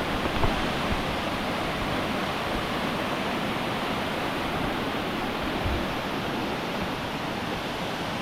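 Steady rush of Anna Ruby Falls, water pouring down the rock face and into the creek, an even, unbroken roar of white noise.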